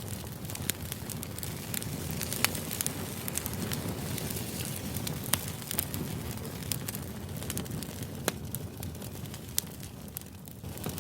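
Crackling fire ambience used as background noise: a steady low rush with irregular sharp pops and crackles, about a dozen over the stretch.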